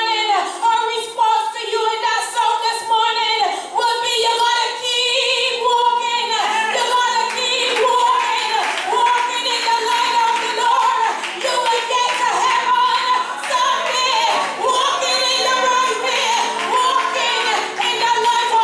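Singing with music, long notes held and bending in pitch.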